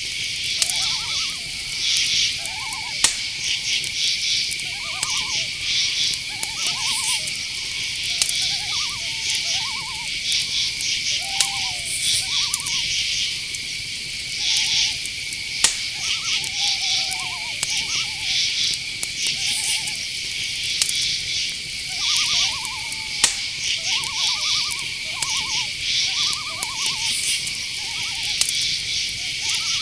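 Night chorus of crickets and other insects: a steady high buzz under rhythmic pulsed chirping, with many short trilled calls lower down and a few sharp clicks.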